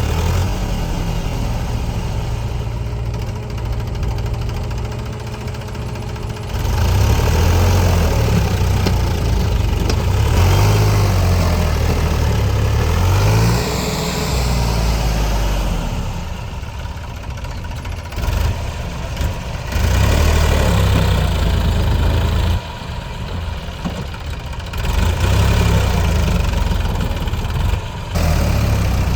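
Tractor engine running under load, its revs rising and falling in several loud surges, with one rev dipping and climbing back about halfway through.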